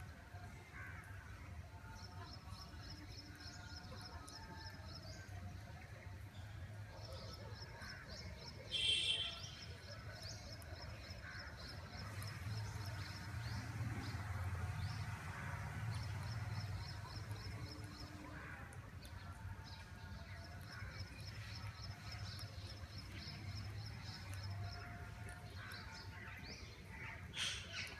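Green parrots calling: rows of rapid, high-pitched chattering trills repeat throughout, with a loud, harsh squawk about nine seconds in and a shorter one near the end, over a steady low hum.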